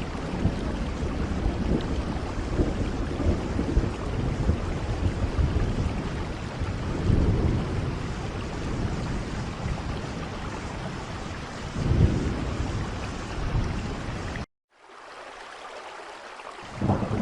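Steady heavy rain with low rumbles of thunder swelling twice. Near the end the sound cuts out abruptly, comes back quieter for about two seconds, then returns at full level, like a splice in a looped recording.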